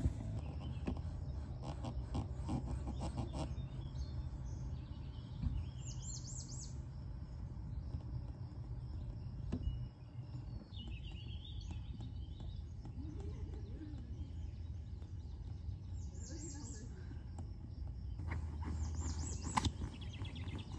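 Outdoor background with a low steady rumble and a bird chirping in short calls a few times. Rustling and knocking from an inflatable paddleboard being handled comes near the start, and again near the end as it is rolled up.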